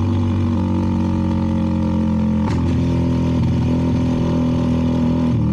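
CFMoto 300NK's single-cylinder engine running at a steady cruise through an aftermarket KO exhaust, with a brief tick about two and a half seconds in and a slight dip in pitch near the end.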